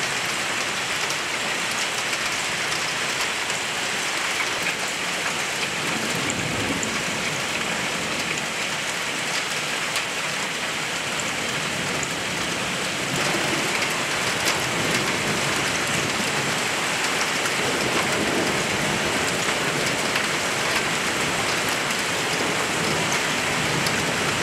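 Heavy thunderstorm rain pouring steadily, a dense hiss peppered with the clicks of drops striking. It grows a little louder about halfway through.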